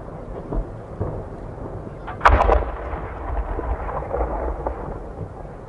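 Fireworks: a sharp bang about two seconds in, a few quick cracks together, followed by a rolling rumble that dies away over a couple of seconds.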